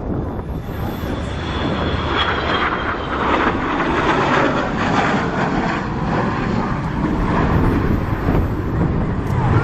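Jet noise of the Avro Vulcan XH558's four Olympus turbojets as the bomber flies its display, a continuous roar that swells about two seconds in and stays loud.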